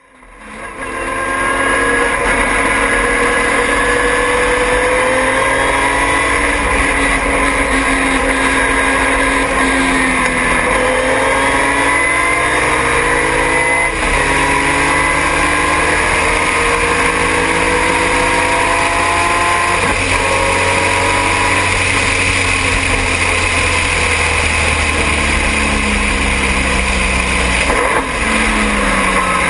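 Triumph TR6's straight-six engine at racing speed, heard on board, fading in at the start. The pitch climbs steadily through each gear and drops sharply at each upshift, about a third of the way in, near halfway and about two-thirds through.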